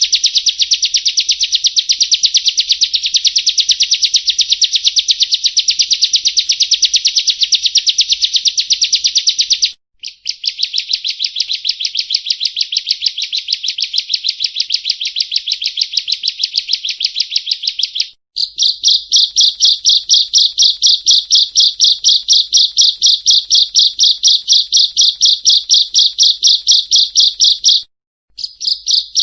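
A prinia (perenjak) calling in a fast, unbroken stream of repeated high notes, with long bouts that stop briefly three times. This is a lure recording for prinias.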